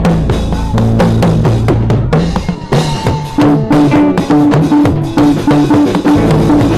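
Live church band playing an upbeat gospel groove between sung lines: a busy drum kit with bass drum and snare strokes over a bass line, with a short keyboard figure repeating from about three and a half seconds in.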